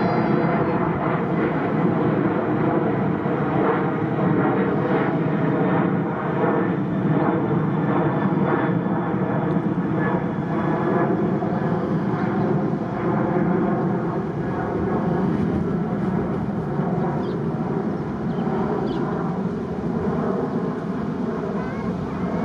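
Boeing 767-300ER airliner's twin jet engines running at takeoff power, a loud, steady, unbroken roar.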